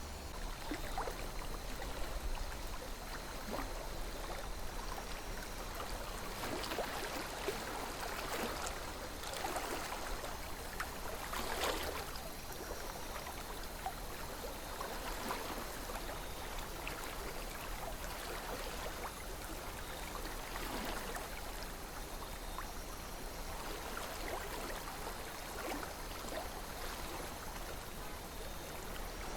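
River water flowing and gurgling steadily over stones, with small splashes and trickles.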